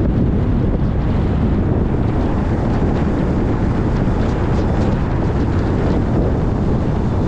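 Car driving along: a steady, low rumble of road and wind noise.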